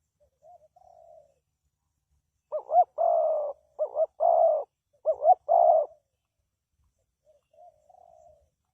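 Spotted dove cooing: a loud song of three phrases, each a quick short note followed by a longer coo, with softer single coos near the start and near the end.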